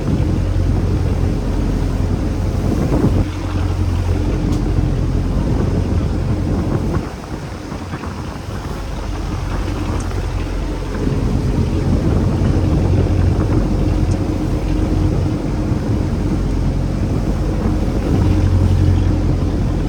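Fishing boat's engine running with a steady low hum, under wind buffeting the microphone and the wash of waves. The engine drops back about seven seconds in and comes up again around eleven seconds.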